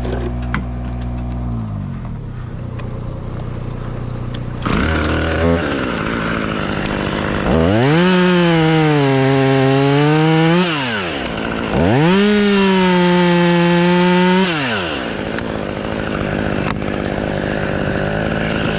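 Chainsaw revved into two cuts of about three seconds each, its pitch sagging under load as the chain bites into the wood, then dropping back. A steady engine runs underneath.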